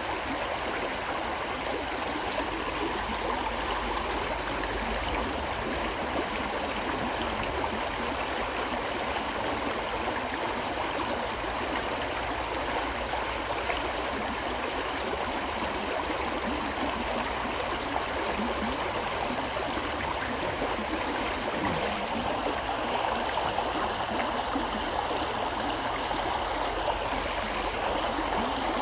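River water flowing steadily, a continuous rushing and gurgling of a stream.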